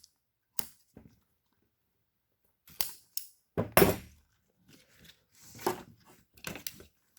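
Scattered clicks, knocks and rustling as an engine wiring harness is handled and its rubber boot is worked off, with a louder thump about four seconds in.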